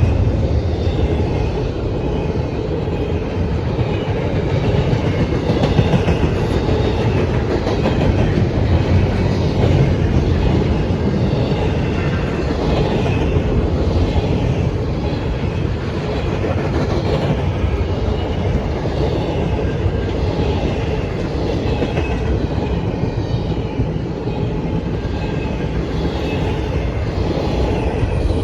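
Freight train cars rolling past at steady speed, with the wheels clicking over rail joints.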